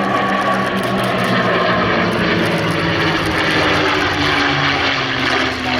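Piston-engined warbird flying past with its engine running steadily. The engine's pitch falls slowly as the aircraft passes.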